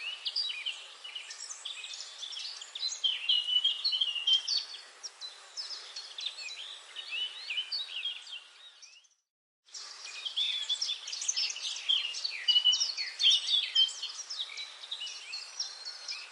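Many forest birds chirping and singing together in a dense chorus of short, high calls. About halfway through, the chorus fades out to a brief silence and then cuts straight back in.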